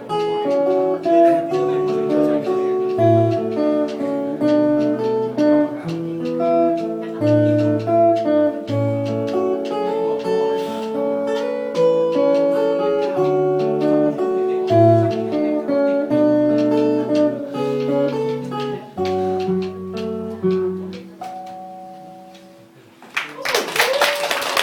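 Solo acoustic guitar played fingerstyle: a picked melody over bass notes. The piece fades out about 22 seconds in, and a loud burst of noise follows near the end.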